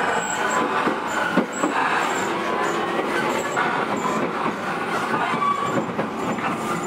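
E231 series electric commuter train running, heard from inside the car: steady wheel-on-rail and running noise with occasional short squeals and clicks from the track.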